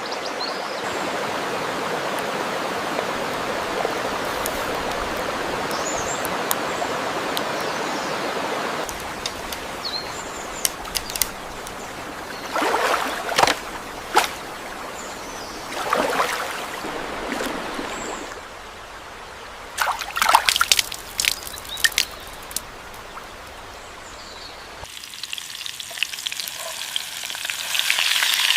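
Water running or pouring steadily, then, after a cut, a run of sharp clicks and short scraping bursts. About 25 seconds in, a crackling sizzle begins.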